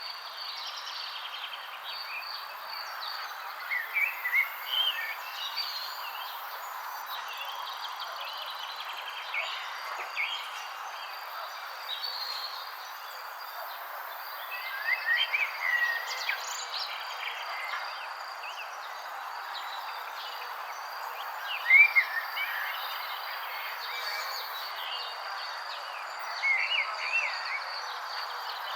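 Birds chirping in short clusters of quick rising and falling notes every several seconds, the loudest about two-thirds of the way in. Beneath them runs a steady high insect trill and a constant soft outdoor hiss.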